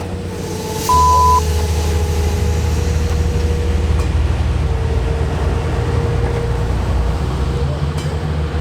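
Train running with a steady low rumble that grows louder about a second in, when a brief high tone sounds.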